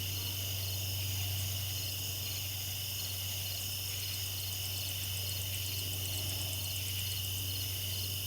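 Crickets and other night insects chirping steadily, with a rapid pulsed trill joining in high above for a few seconds mid-way, over a steady low hum.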